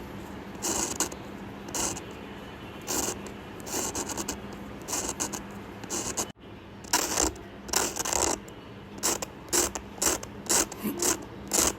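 Drawing tool scratching across paper in separate strokes, slower at first, then after a brief break about six seconds in, quicker and shorter strokes.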